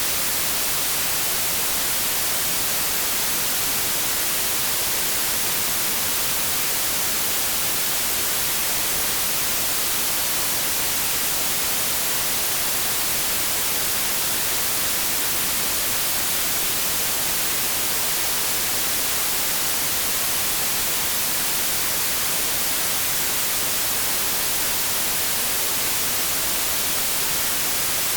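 Continuous white noise: a steady, even hiss, strongest in the high frequencies, with no change in level.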